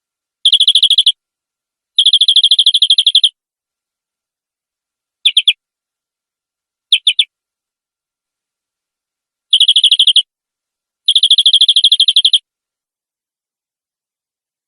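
Domestic canary singing fast rolling trills in six separate phrases, from a quick fraction of a second to over a second long, with dead silence between them. This is a lure recording meant to set other canaries singing.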